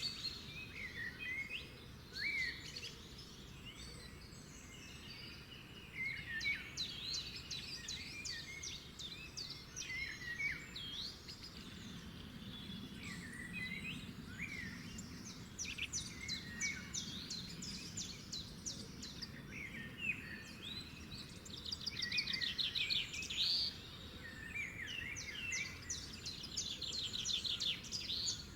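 Several songbirds singing and chirping together, with quick repeated trills and short sweeping notes, over a faint steady background hiss.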